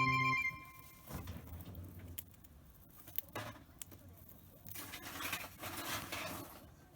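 The end of an intro jingle, then soft rustling and scraping with scattered small taps and clicks, louder in patches about a second in, near the middle and in the second half.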